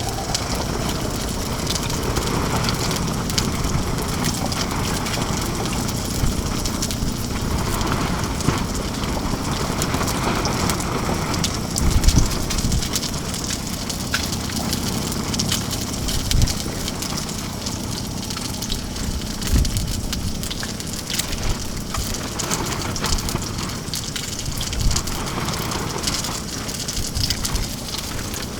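Salmon frying in hot oil in a pan on a portable propane stove: a steady sizzle full of fine spattering crackles. Low gusts of wind thump against the tent and microphone now and then.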